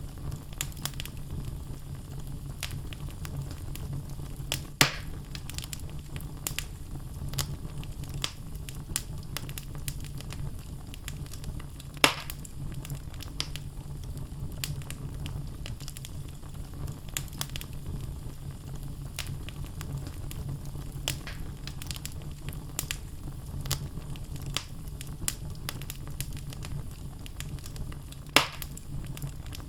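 Wood fire burning in a fireplace: logs crackling with frequent small snaps over a steady low rumble of flame. Three louder pops stand out, about five seconds in, about twelve seconds in, and near the end.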